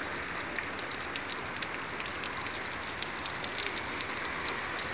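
Steady heavy rain falling, a dense even hiss of water with many small, sharp drop hits on hard surfaces and puddles.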